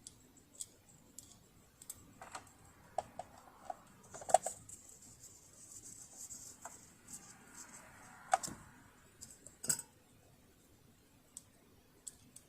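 Scattered clicks and light knocks of small metal parts and tools being handled, with three sharper knocks about four, eight and nine and a half seconds in. There is no sound of the sewing machine running.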